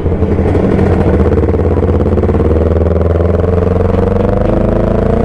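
Kawasaki Ninja sport motorcycle engine running at low revs while rolling slowly in traffic, its note rising a little near the end.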